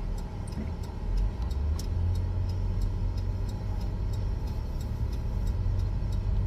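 Buick's engine running with the freshly recharged air conditioning on, heard from inside the cabin as a steady low rumble, with a faint regular ticking.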